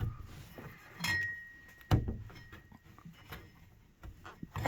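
A few sharp clicks and knocks of plastic push-in clips being pressed into the holes of a rear window panel, the loudest about two seconds in.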